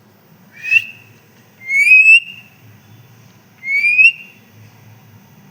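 Pet parrot whistling: three rising whistles, a short one and then two longer ones, each sliding upward in pitch.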